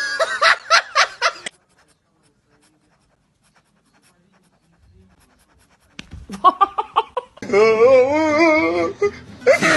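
Bursts of human laughter in quick pulses, then a few seconds of near silence, then laughter again that turns into a drawn-out, wavering sound.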